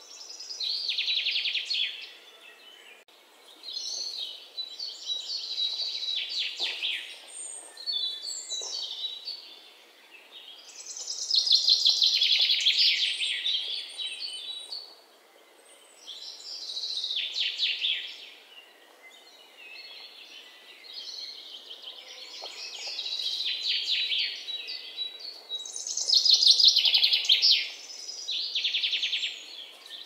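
Birds singing: one bout of rapid, high trills after another, each a second or two long, over a faint steady outdoor background.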